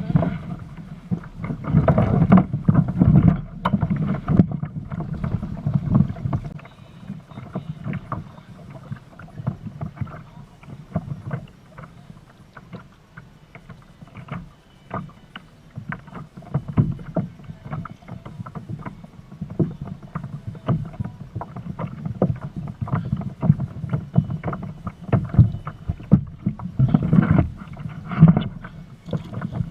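Choppy water slapping and knocking against a kayak's hull, an irregular run of knocks and splashes that is busier at the start and again near the end.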